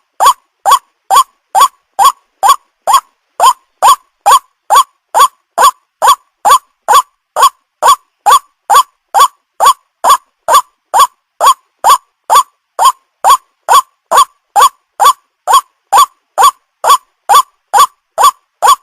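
White-breasted waterhen's call, one short rising note repeated evenly a little over twice a second: a looped ruak-ruak lure call.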